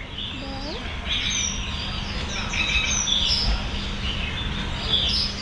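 Several birds chirping and twittering, many short high calls and quick sweeps overlapping throughout, over a steady low rumble and a faint hum.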